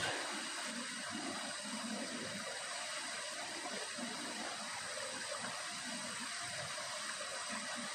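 Steady, even background hiss with faint low rumbling underneath; no single source stands out.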